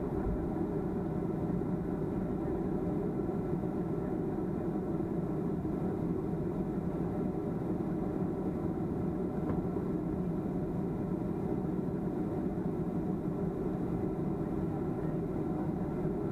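Steady drone of a Boeing 737-300's CFM56-3 jet engines and airflow heard inside the passenger cabin.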